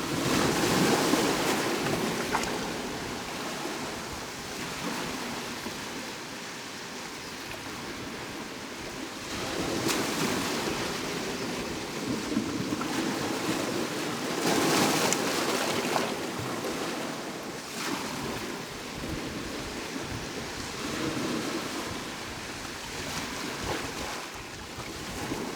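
Sea waves breaking and washing on the shore, the surf swelling and ebbing every few seconds.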